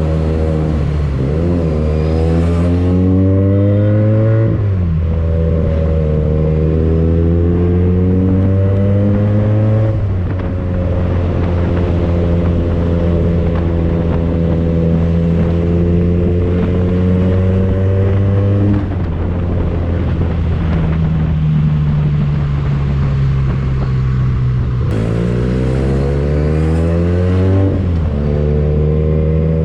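Benelli TNT249S motorcycle engine running loud through an aftermarket Tridente F22 carbon exhaust while accelerating through the gears: the note climbs, drops sharply at each of several upshifts, then climbs again, with a long stretch of near-steady running in the middle.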